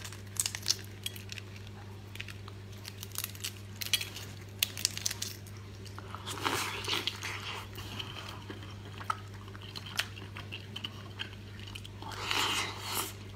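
Close-up eating sounds: small clicks and cracks of eggshell being peeled, then wet chewing and crunching while eating a boiled fertilized egg (maodan), over a steady low hum.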